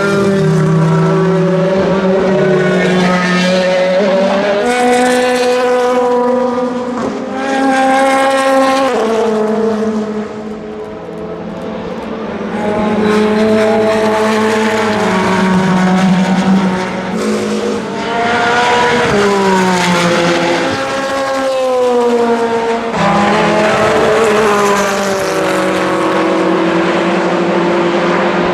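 Peugeot 9X8 hypercar's twin-turbo V6 race engine at full throttle on track, its pitch climbing and stepping through gear changes as the cars pass one after another.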